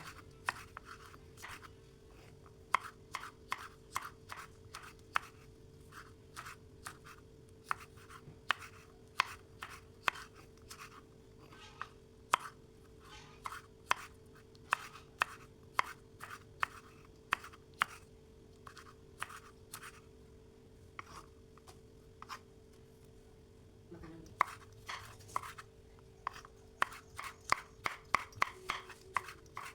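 Knife chopping food on a cutting board: a long run of sharp, separate strokes, about one to two a second, with a short pause past the middle and quicker strokes near the end. A faint steady hum runs underneath.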